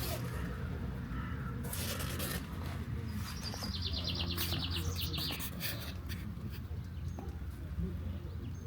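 A bird trilling: a rapid run of high notes lasting about two seconds, starting about three seconds in. Scattered soft clicks and rustles sound around it.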